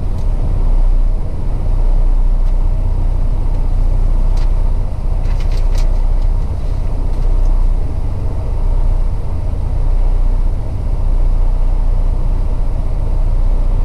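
A semi truck on the move: a steady low engine rumble with road noise, and a few brief clicks near the middle.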